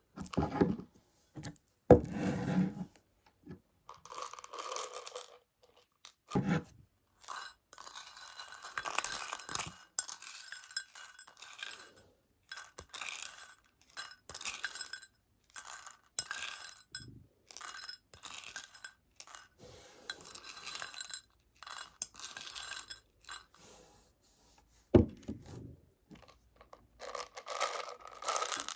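Tiny Meiji Choco Baby chocolate pellets rattling and clinking in their plastic container, in irregular stretches of dense rattling. The rattling is broken by sharper taps and knocks.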